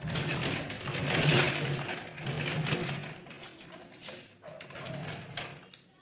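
A small electric motor running in uneven surges, with a steady low hum under a noisy mechanical whirr.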